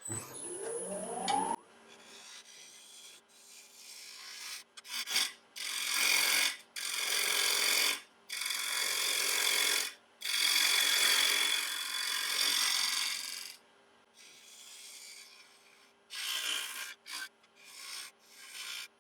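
Wood lathe spinning up with a rising whine, then a freshly sharpened bowl gouge cutting a spinning sycamore bowl blank in a series of passes, each a scraping hiss lasting one to three seconds, over the lathe's faint steady hum.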